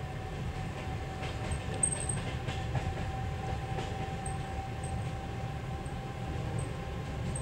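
Interior of a passenger train's seated car in motion: a steady low rumble with a faint steady whine above it, and a few light clicks between one and three seconds in.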